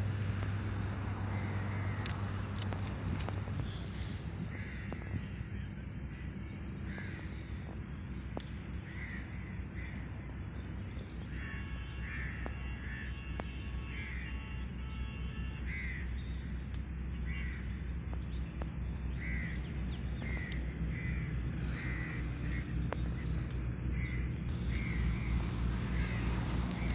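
Birds calling outdoors, a short call repeated about once a second, over a steady low rumble.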